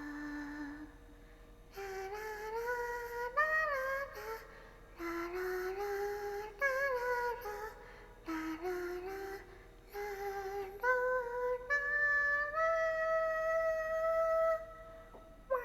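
A young woman's wordless, high-pitched sing-song vocalizing while drinking: a string of held notes that step up and down in pitch, in short phrases with brief pauses between them.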